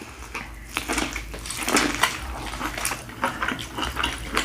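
Close-miked biting and chewing of corn on the cob: mouth and eating noises made of many quick, irregular clicks.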